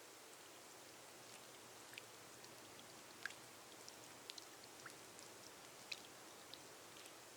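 Faint, steady rain falling on a glass roof, a soft hiss with scattered single drops ticking sharply here and there.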